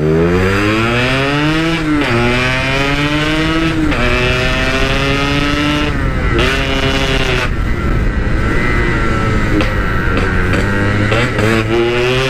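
Yamaha RX-King's two-stroke single-cylinder engine, through a stock-style aftermarket exhaust, accelerating hard through the gears: the revs climb and drop three times at each upshift about two seconds apart, then settle lower before picking up again near the end.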